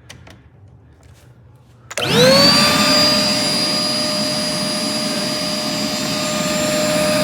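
Wet-dry shop vac switched on about two seconds in. Its motor spins up quickly in a rising whine, then runs with a steady, loud whine and rush of air.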